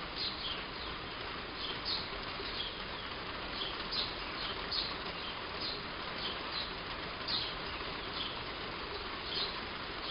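Steady heavy rain falling on a roof, with a bird giving short, high chirps about once a second over the rain.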